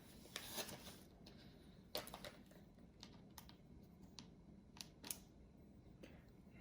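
Faint, scattered light clicks and taps of small screwdriver tools against a portable hard drive's casing, a dozen or so irregular ticks.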